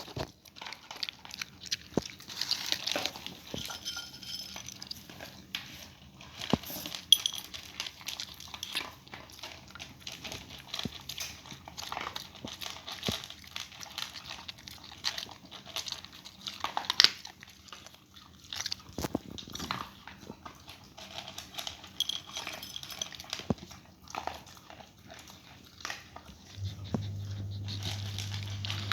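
Dog eating, with irregular crunching and chewing as it bites into its food. A steady low hum starts near the end.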